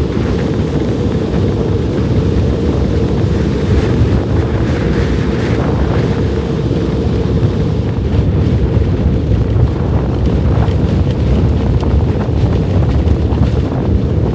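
Blizzard wind buffeting the microphone: a loud, steady, low rush with no let-up.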